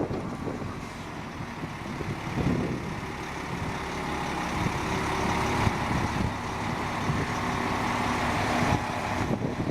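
2000 International 2554 plow truck's diesel engine running steadily, its level rising and falling a little.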